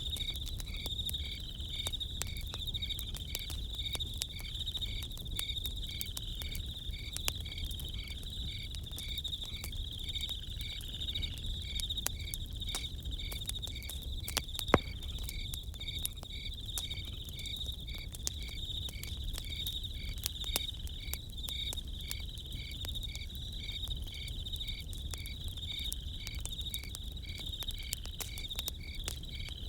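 Crickets chirping steadily and rhythmically over a crackling campfire, with scattered sharp pops and one louder pop about halfway through.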